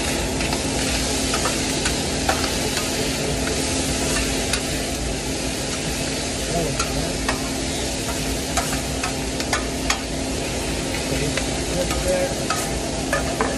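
Ham, onions, jalapeños and mushrooms frying in hot oil on a flat-top griddle, sizzling steadily, with scattered clicks and scrapes of a metal spatula stirring them.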